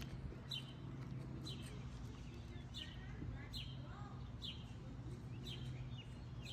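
Birds chirping: a short, sharp call repeated about once a second, with fainter chirps between, over a steady low hum.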